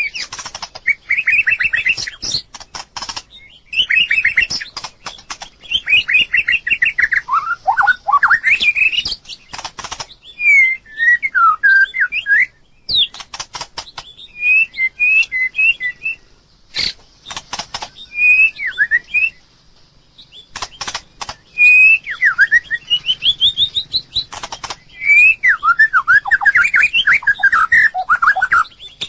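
White-rumped shama singing: a run of short, varied whistled phrases, many sliding up or down in pitch, with trains of sharp clicks between the phrases.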